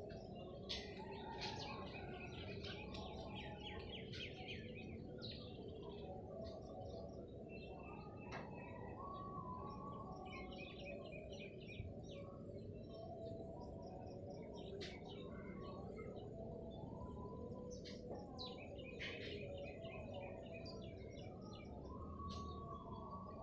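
Small birds chirping in quick runs of notes that come every few seconds, over a steady low background hum.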